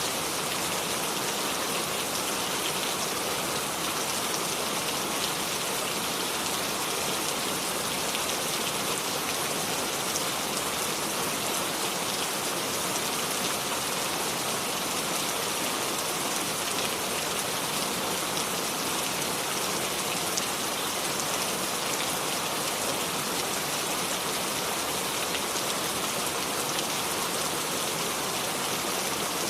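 Steady rainfall without thunder: an even hiss of rain with scattered individual drops ticking on a surface.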